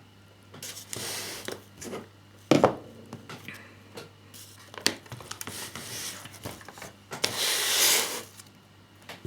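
Hands handling small plastic scale-model parts: rubbing and rustling with several sharp clicks and taps, the loudest about two and a half seconds in.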